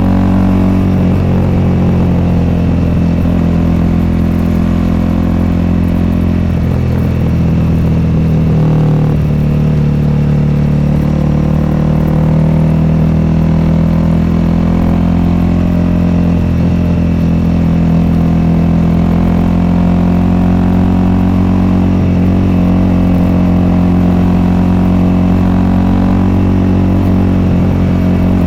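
Honda CRF300L's single-cylinder four-stroke engine running through an aftermarket FMF Q4-style exhaust at low, fairly steady revs. The engine speed drops briefly and picks up again about a quarter of the way in.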